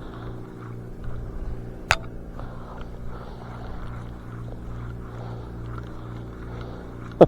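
A small motor humming steadily at one pitch, with a sharp click about two seconds in and another near the end.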